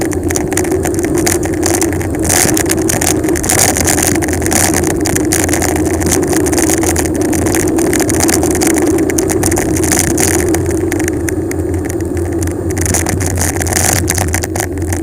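Wind rushing over a helmet- or bike-mounted action camera's microphone during a fast bicycle descent: a steady, heavy rumble with scattered ticks and rattles throughout.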